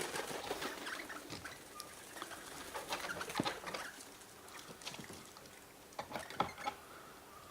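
Birds at a backyard feeder: scattered short clicks and scratching of pecking and scuffling, with a few brief bird calls.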